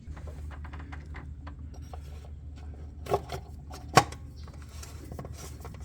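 Light clicks and scrapes of a plastic oil filter cap with its new cartridge being handled and set onto the metal filter housing, with two sharper knocks about three and four seconds in, over a steady low hum.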